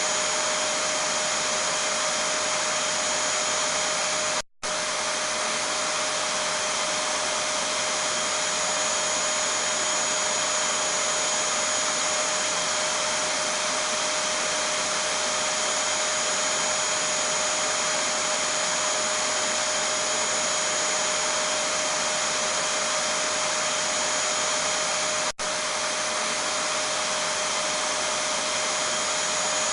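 Vacuum cleaner running steadily: an even rushing noise with a fixed whine on top. It drops out for an instant about four and a half seconds in.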